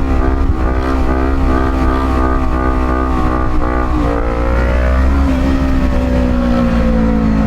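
Motorcycle engine under way at steady revs, its note shifting about four seconds in and then falling slowly as the revs drop toward the end, with a heavy low wind rumble on the microphone.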